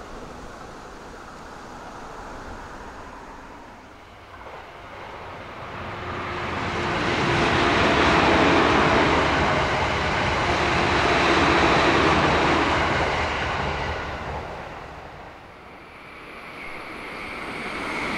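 A JR electric train passing at over 100 km/h: the sound of wheels on rail and rushing air builds from about a third of the way in, holds loud for several seconds, then fades away. Another train starts to rise near the end.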